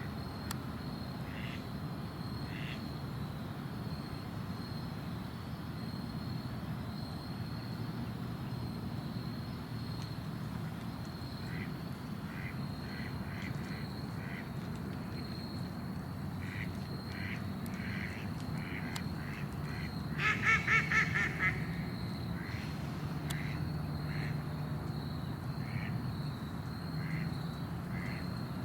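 Ducks quacking: scattered short quacks at first, then a loud rapid run of quacks about two-thirds of the way through, over a steady high-pitched tone and a low rumble.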